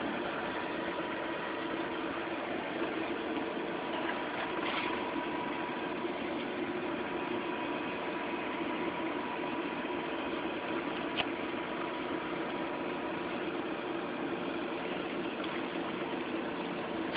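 Fire engine motor idling steadily, a constant mechanical hum with a couple of held tones. A sharp click at the very end.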